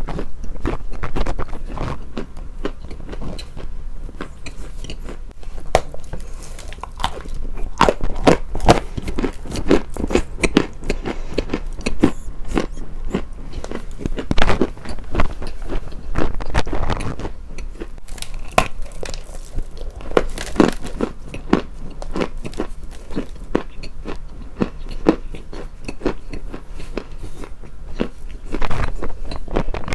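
Close-miked crunching of a brittle material: dense, irregular crisp crunches and crackles, with a few louder crunches about a third, half and two-thirds of the way through.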